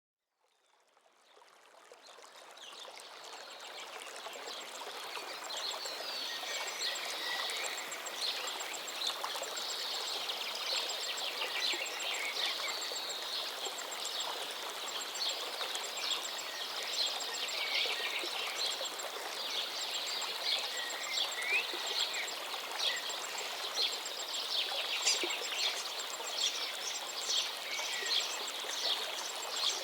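River stream running steadily, with many small birds chirping and calling over the water. The sound fades in over the first few seconds.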